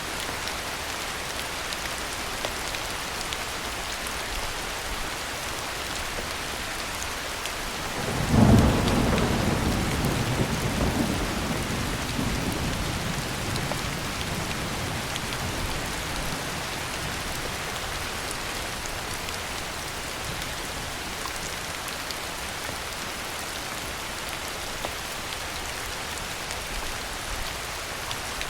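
Steady heavy rain, with a clap of thunder about eight seconds in whose low rumble fades away over the following several seconds.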